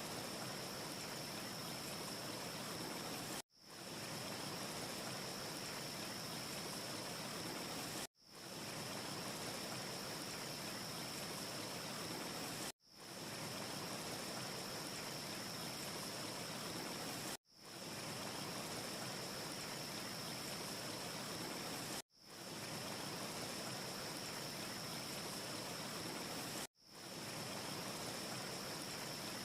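A steady, even rushing noise like wind, with a thin steady hiss high up and no distinct crackles, that cuts out completely every four to five seconds, six times, and fades back in within about half a second: a short ambience clip looped with gaps.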